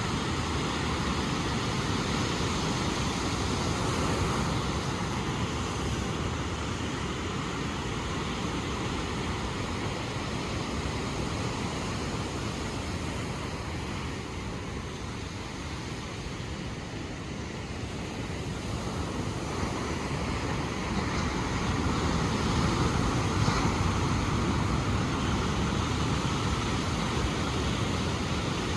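Ocean surf washing in a steady rush of noise that eases a little around the middle and swells again near the end.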